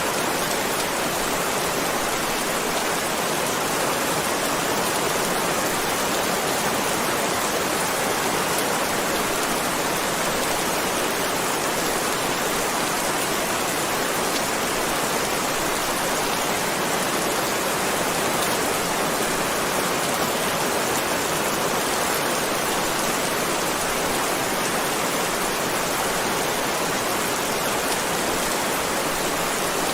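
Heavy rain falling steadily as an even, unbroken hiss, with no separate drops, thunder or music standing out.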